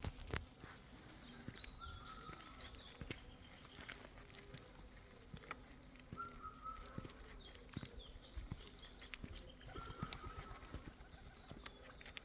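Birds singing. One bird repeats a short level whistled note about every four seconds among higher chirps, with scattered footsteps.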